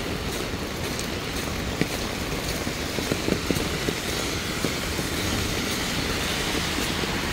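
Heavy rain pouring onto a wet street and pavement: a steady hiss over a low rumble, with a few sharp taps of drops.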